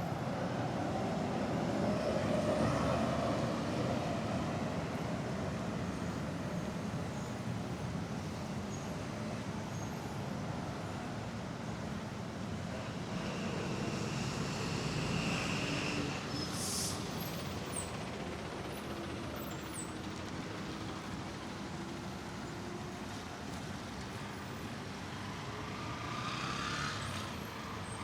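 City road traffic: a steady rumble of vehicles going by, swelling as each passes, loudest a few seconds in.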